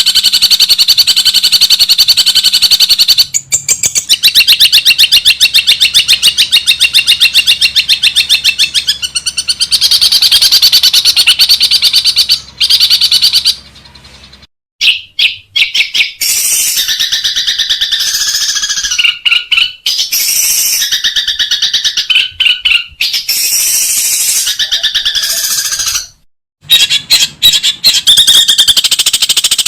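Long-tailed shrike (cendet) singing loudly: a rapid-fire run of repeated sharp notes, then varied chattering phrases after an abrupt break about halfway. The sound cuts out suddenly again for a moment near the end.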